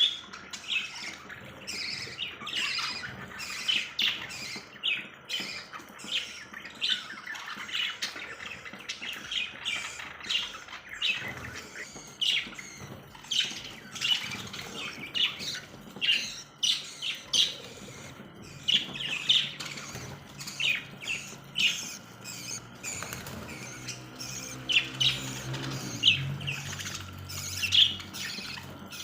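A flock of parrots calling and squawking, many short high calls overlapping without a break. About three-quarters of the way through, a low hum swells and fades over a few seconds.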